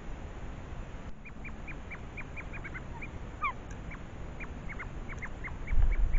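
Birds calling: after a second of steady hiss comes a quick string of short, high, falling notes, about three or four a second, with a couple of rising notes in the middle. A low rumble swells near the end.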